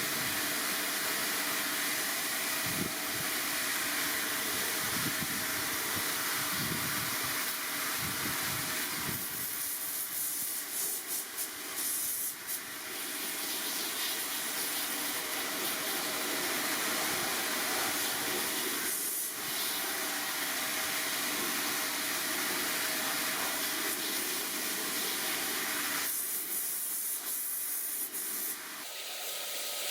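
A pressurised spray nozzle hisses steadily, the stream shifting and briefly easing off a few times.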